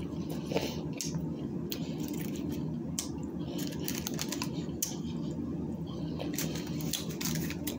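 Close-miked eating of a soft taco: scattered small clicks and crackles of chewing and handling the food, over a steady low hum.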